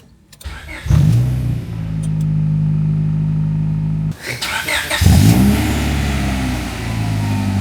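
Honda Prelude's rebuilt H22 four-cylinder engine pulling the car away under power, after a few clicks at the start. The engine note rises and holds steady, drops briefly about four seconds in at a gear change, then rises and holds again.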